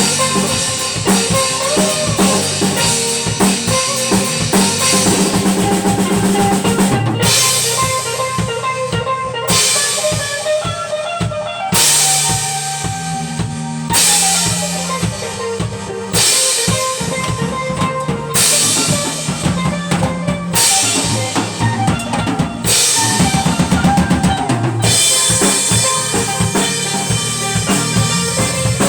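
A live band playing: a full drum kit with bass drum, snare and cymbals under bass and other pitched instruments. Through the middle stretch the cymbals drop out and come back every second or two in a stop-start pattern, then ride steadily again near the end.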